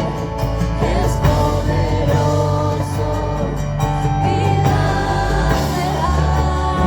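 Live worship band playing a Spanish-language praise song, with sung vocals over guitar, bass and drums.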